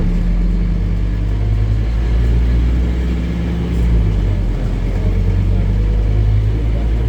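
Scania N270UD OmniCity bus's five-cylinder diesel engine running steadily under way, a deep even drone with little change in pitch.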